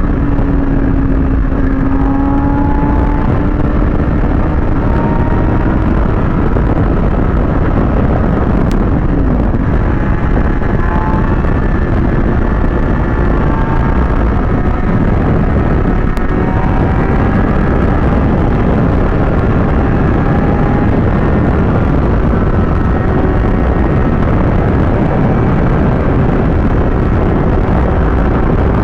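Kawasaki ZX-6R sportbike ridden at speed: a steady rush of wind and road noise, with the inline-four engine's note underneath, its pitch drifting slowly up and down.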